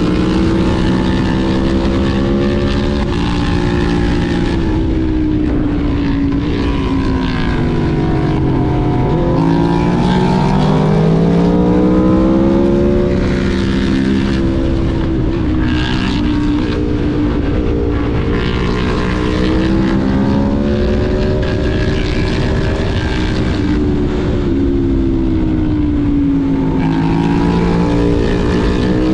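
Aprilia Tuono V4 1100's V4 engine pulling hard, its pitch climbing and then stepping down at gear changes, then backing off and rising again several times, over steady wind rush.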